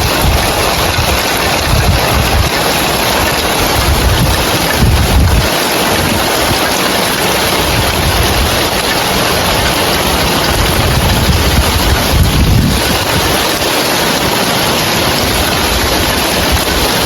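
Heavy rain falling on roof tiles: a loud, dense, steady hiss, with low rumbling swells a few times.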